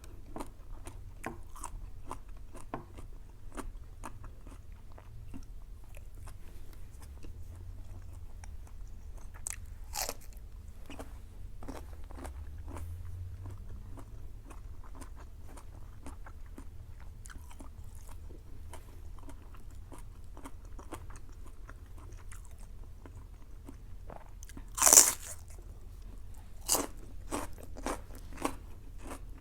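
Scattered soft clicks and crunches from food being worked by hand, with one louder clatter about 25 seconds in.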